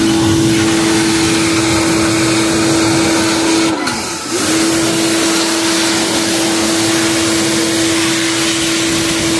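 An electric motor running steadily with a constant hum, briefly slowing and picking back up about four seconds in.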